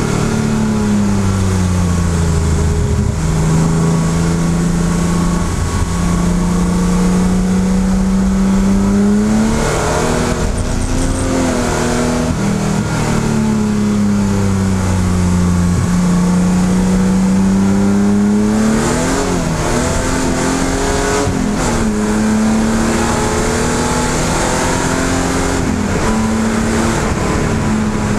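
BMW E12 M535i's 3.5-litre straight-six engine running hard, heard from inside the cabin, its revs climbing for several seconds at a time and falling back again, over and over.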